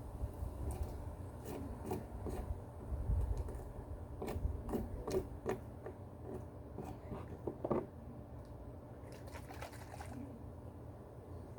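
A run of short scrapes and clicks from hands handling materials, with a low rumble under the first half.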